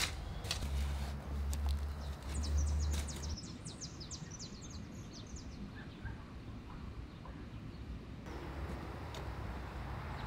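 A bird sings a quick run of high chirping notes over outdoor ambience. Near the start there are a few knocks of a hoe chopping into clay soil.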